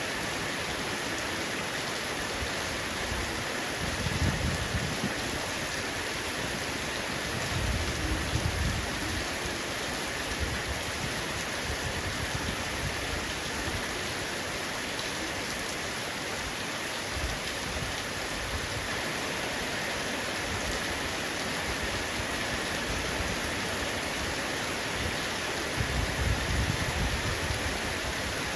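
Heavy rain falling steadily on a roof, an even dense hiss of drops. Low rumbles swell up briefly three times: about four seconds in, about eight seconds in, and near the end.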